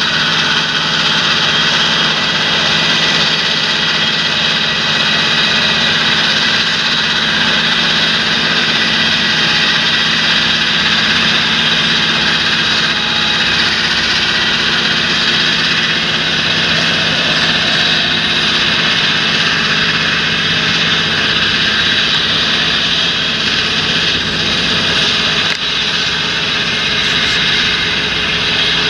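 Large John Deere tractor diesel engine running steadily under field-work load, a constant loud drone with no change in revs.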